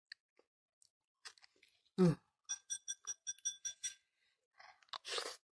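Close-miked chewing of spicy fried tofu, with soft wet mouth clicks. A short 'mm' comes about two seconds in, followed by a quick run of small clicks and a short hissing sound near the end.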